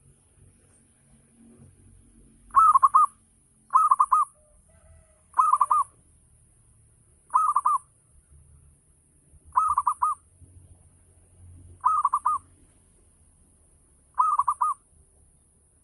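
Zebra dove (perkutut) cooing: seven short, wavering calls, one roughly every two seconds.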